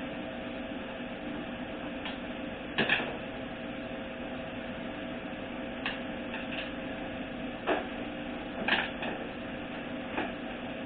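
Scattered short knocks and clicks of hand work on a 4L60E automatic transmission, about half a dozen in all, over a steady background hum.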